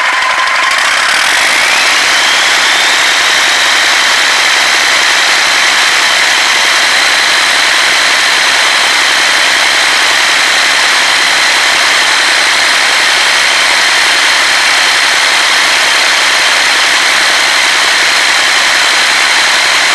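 Deutz BF12L413F air-cooled V12 turbodiesel running loudly, speeding up over the first few seconds with a high whine climbing in pitch, then holding steady at high speed.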